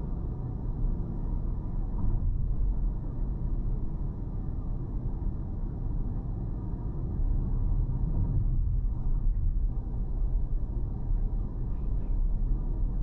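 Steady low road rumble of a car being driven, engine and tyre noise with no sharp events.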